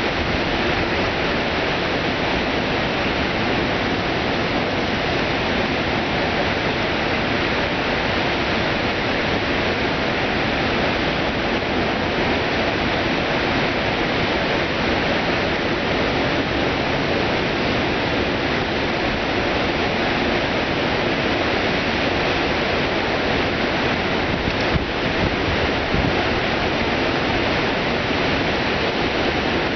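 Floodwater pouring over the half-built Cotter Dam: a steady, loud rush of falling water.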